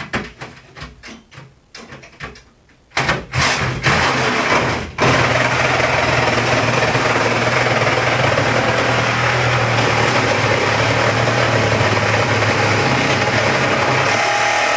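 Handling knocks and clicks, then a cordless power tool starts in a few short bursts about three seconds in and runs steadily, cutting through the old refrigerator's cabinet.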